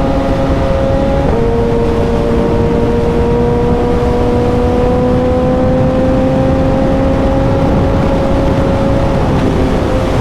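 Suzuki motorcycle engine running under way with a steady pitched note. The pitch drops suddenly about a second in, as at a gear change, then climbs slowly as the bike pulls. Wind rush on the on-bike microphone sits under it.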